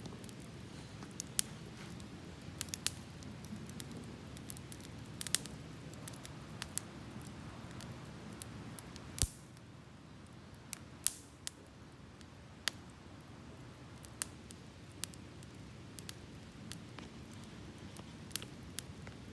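Wood campfire crackling, with irregular sharp pops over a steady low rumble; one pop about nine seconds in is the loudest.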